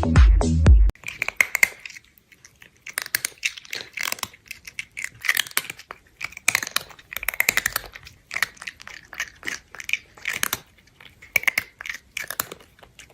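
Electronic dance music cuts off about a second in. It is followed by an animal chewing crunchy food: irregular bursts of sharp crunches with short pauses between bites.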